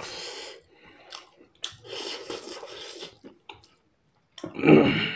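A person chewing a mouthful of instant noodles and chicken close to the microphone, in several stretches, with a louder, brief mouth sound about four and a half seconds in.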